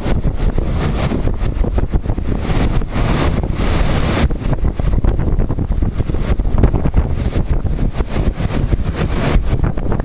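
Strong storm wind buffeting the microphone: a loud, constant low rumble with gusts of hiss that surge and fade every second or two.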